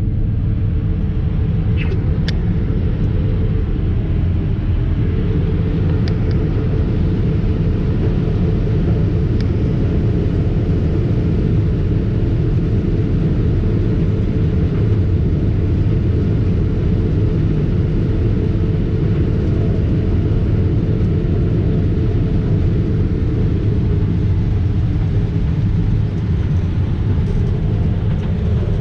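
Heavy diesel farm machinery engine running steadily at constant speed, a low, even drone.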